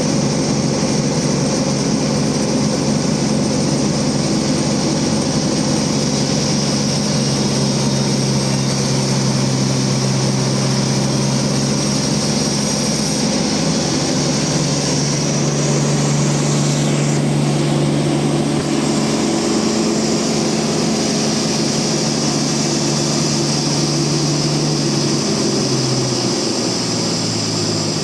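Large bandsaw sawmill running with a loud, steady engine drone and a high hiss. The drone shifts in pitch about halfway through and falls near the end.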